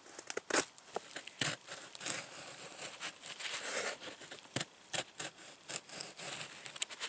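Irregular rustling and crinkling with many sharp clicks and scrapes, as of stiff material being handled or flapping, with a hissy stretch in the middle.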